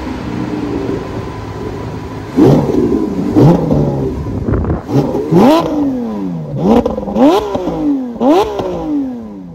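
Lamborghini Aventador SVJ's naturally aspirated 6.5-litre V12 revved while the car stands still. It idles for about two seconds, then is blipped about seven times in quick succession; each rev shoots up fast and falls back slowly.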